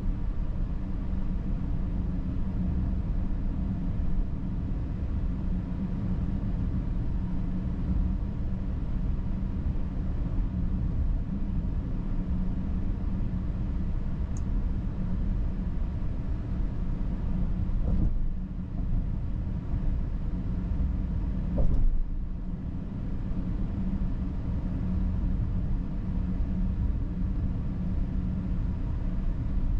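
Cabin sound of a 2022 Volkswagen Atlas on the move: a steady low engine and road rumble with tyre noise. There is a brief knock about 18 seconds in and a louder short thump about 21 to 22 seconds in.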